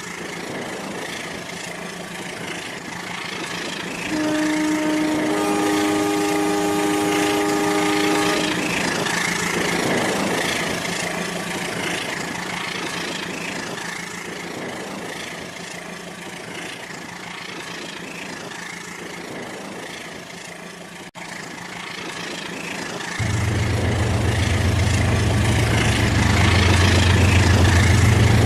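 Rail King toy train running on its track with a steady whirring and rattling. A multi-note horn chord sounds for about four seconds early on. About three-quarters of the way in, a loud low engine-like hum starts abruptly and continues.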